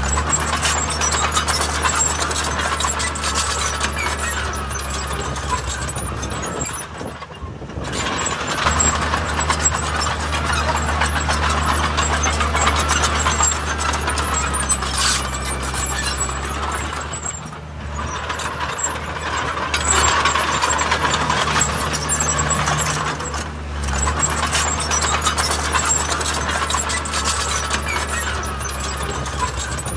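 Heavy earthmoving machinery running: a steady low diesel engine drone under dense mechanical noise, easing off briefly about three times.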